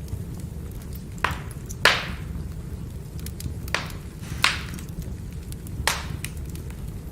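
Burning firewood crackling: about five sharp pops scattered through, the loudest about two seconds in, with fainter snaps between them over a steady low rumble of the fire.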